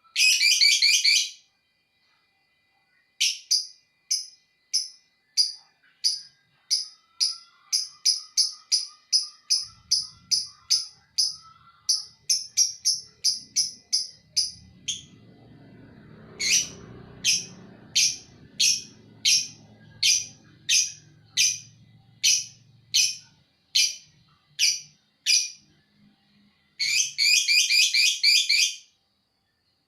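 Lovebird calling: a fast, dense rattling trill at the start and again near the end, with long runs of sharp, evenly spaced chirps at one to two a second between them. This is the 'ngekek' call that keepers prize in the bird.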